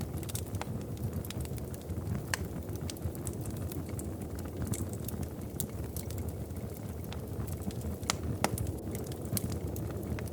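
Wood fire burning in a fireplace: a steady low rumble of flames with irregular crackles and sharp pops, the loudest pair of pops a little past the middle.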